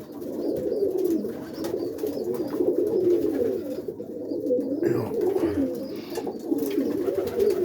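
Several roller pigeons cooing at once, a continuous overlapping murmur of low, wavering coos.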